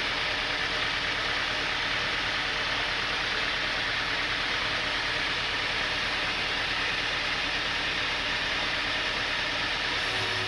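Sawmill machinery running steadily, an even mechanical noise with a low hum beneath it and no break.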